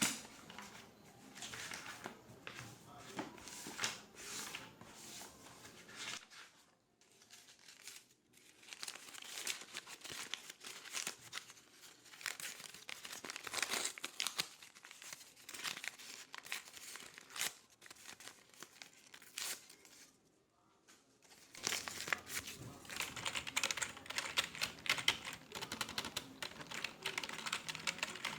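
Office ambience of dense, rapid clicking and crinkling, with two short lulls, about seven seconds in and about twenty seconds in.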